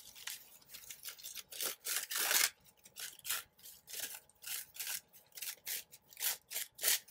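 Paper being handled on a craft table: a string of short, irregular scratchy rustles, loudest about two seconds in.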